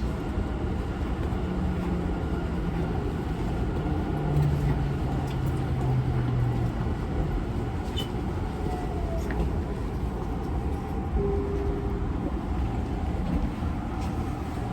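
Running sound inside a Tobu 50090-series commuter train car as it slows for a station: a steady low rumble of wheels and track, with faint motor whines that step down in pitch. The uploader finds this car's motor sound unusual, perhaps a different motor type.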